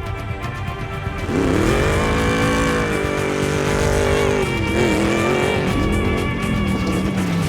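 A vehicle engine revving hard about a second in, its pitch rising and falling as it is driven, with tyre squeal from drifting, over background music.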